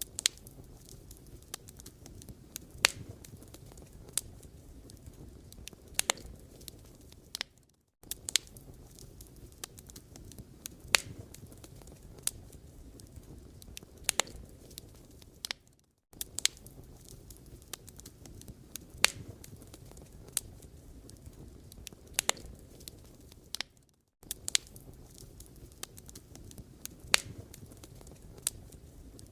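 Wood fire burning, with sharp irregular crackles and pops of the burning logs over a low steady rumble. The sound briefly drops out about every eight seconds.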